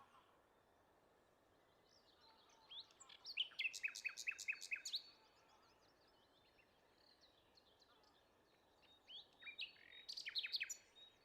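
Wild songbirds singing: two loud song phrases, each a quick run of sharply falling notes, about three seconds in and again near the end, with fainter calls from other birds between them.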